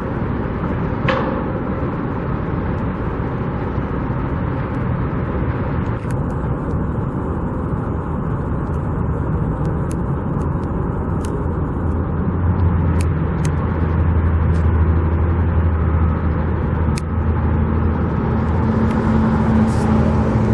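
Steady outdoor traffic noise with a motor vehicle's engine hum, the low hum growing stronger about halfway through.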